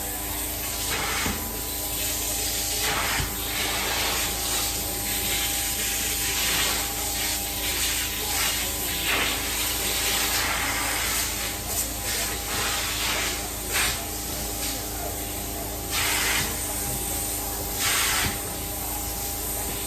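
Hot-water extraction carpet-cleaning tool hissing as it sprays and sucks up water in repeated strokes, the hiss swelling every second or two over the machine's steady hum.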